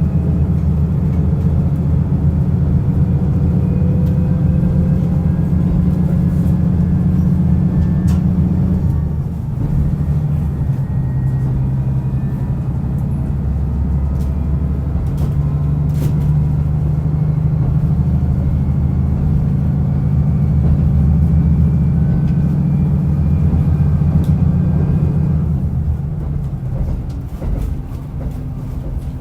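Diesel railcar running on the line, heard from inside the car: the engine drones steadily under power along with wheel and rail noise. About nine seconds in the engine note dips briefly and shifts to a new pitch. Near the end it grows quieter.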